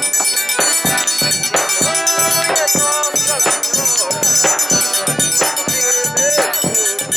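Live forró pé-de-serra music: an instrumental stretch, a melody over an even, driving beat with a steady high ringing above it.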